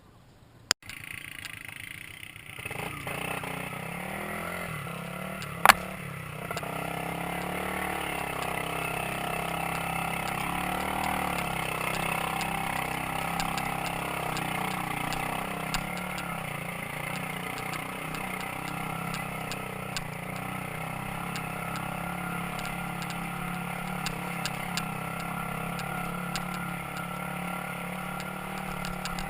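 Motorcycle engine running steadily while riding, starting suddenly just under a second in, with scattered rattles and one sharp knock about six seconds in.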